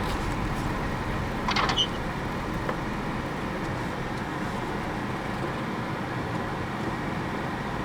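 Steady road and engine noise heard from inside a car driving over an ice-covered road. About one and a half seconds in there is a short rattle of clicks.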